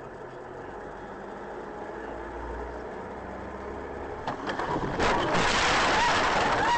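Car engine and road noise on a dashcam recording, slowly growing louder. About five seconds in, a much louder rushing noise sets in and holds to the end, with a few short wavering squeals in it.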